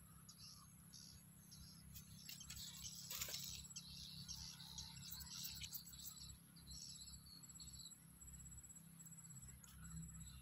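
Faint outdoor evening ambience: insects keep up a steady high-pitched drone and a rapid ticking trill, while small birds chirp on and off over a low background rumble.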